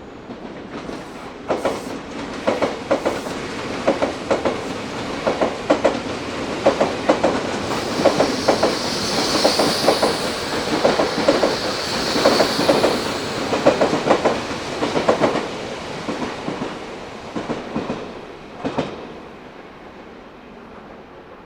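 Odakyu Odawara Line electric train passing at speed, its wheels clacking rhythmically over the rail joints. The sound builds over the first couple of seconds, stays loud with a high hiss while the cars are closest, and fades away near the end.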